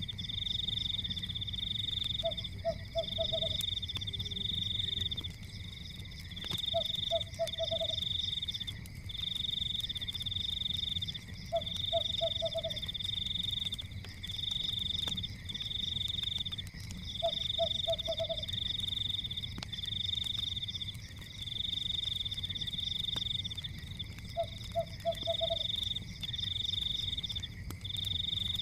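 A chorus of frogs calling: high pulsed trills repeating every second or two without a break, and a lower run of four or five quick croaks about every five seconds. Beneath it, a low steady rumble with faint scattered crackles from a fire.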